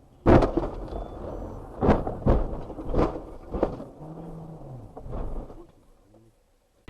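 Car crash: a sudden loud impact just after the start, followed by several more bangs and knocks over the next five seconds.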